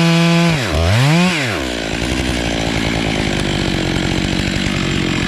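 Stihl MS 881 two-stroke chainsaw running at full throttle, its pitch steady. About half a second in, the throttle is let off. The saw is revved once more, briefly, then drops to a rough, pulsing idle.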